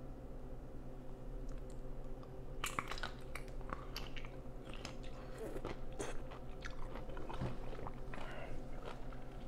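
A whole pickle being bitten into and chewed: crisp crunching starting about two and a half seconds in and going on in irregular crunches, over a steady low hum.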